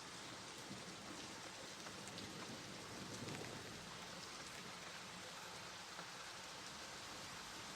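Steady rain falling on a surface, an even hiss with scattered drop ticks and a slight low swell about three seconds in.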